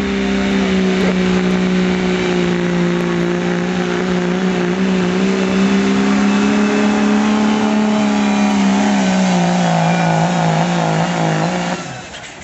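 Dodge dually diesel pickup's engine held at high revs under heavy load while pulling the sled, a loud steady drone. Near the end the revs sag and waver as the truck bogs down, then the engine drops off abruptly as the driver lets off at the end of the pull.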